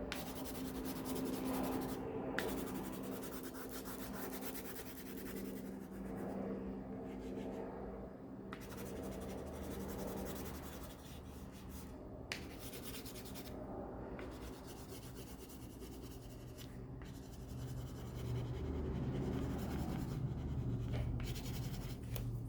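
Crayon rubbing on paper in repeated light strokes, filling in a large area of colour, with short pauses between strokes.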